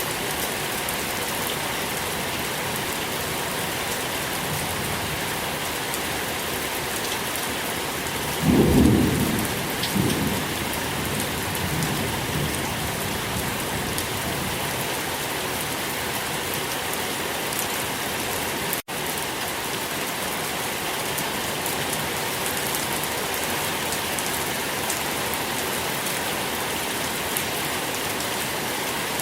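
Steady rain falling, with a low rumble of thunder about eight seconds in that fades away over the next few seconds. The sound cuts out for an instant a little after halfway.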